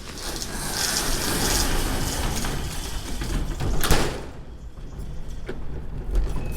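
A door sliding shut with a long rushing rumble that ends in a bang about four seconds in, followed by a few light clicks.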